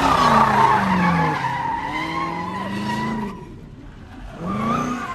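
Car engine revving hard while its tyres squeal, as in a burnout or donut, easing off about three seconds in; near the end the engine revs up briefly once more.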